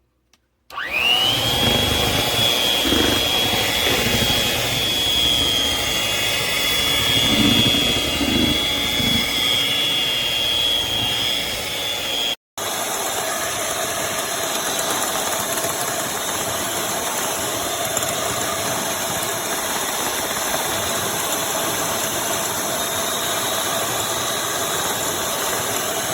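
GUALIU electric hand mixer's motor switching on with a quick rising whine, then running steadily at speed. About twelve seconds in, the sound cuts out for an instant, and a steady whirring of a different character, without the high whine, carries on.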